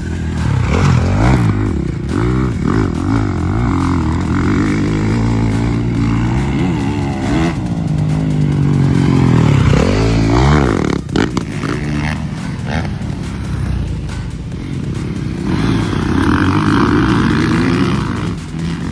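Motocross dirt bikes racing around a track, engines revving up and down as riders work the throttle through corners and jumps, with several bikes overlapping. The engine sound dips briefly about halfway through, then picks up again.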